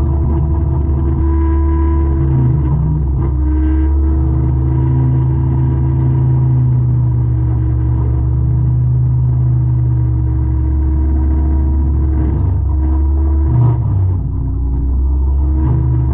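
Forestry mulcher's diesel engine running steadily under heavy load, its pitch shifting slightly a few times, with a single brief knock near the end.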